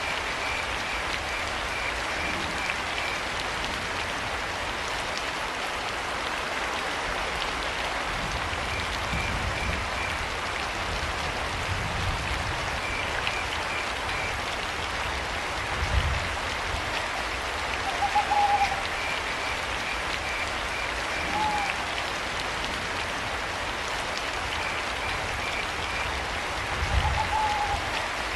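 Steady rain with crickets chirping in short, evenly pulsed trains every few seconds. An owl hoots three times in the second half, in short single notes, over a few low rumbles.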